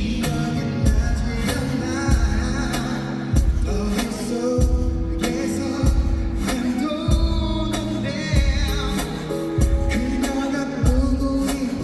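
Live pop/R&B song played loud through a concert sound system, with a male vocal over a deep bass note that hits about every second and a quarter.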